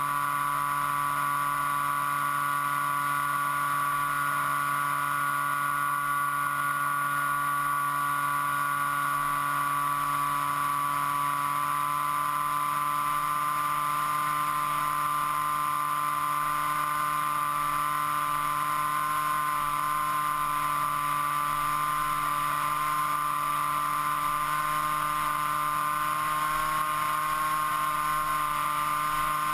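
Onboard sound of an FPV model aircraft's motor and propeller running steadily at a constant throttle, a steady pitched drone with a slight rise in pitch near the end.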